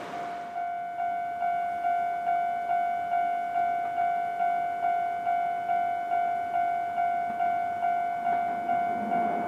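Railway level-crossing warning bell ringing: one electronic chime tone struck a little over twice a second, each strike dying away. It starts about half a second in and signals that a train is approaching.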